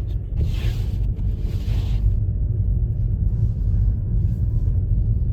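A car driving on a snowy road: a steady low rumble, with a rushing hiss from about half a second to two seconds in.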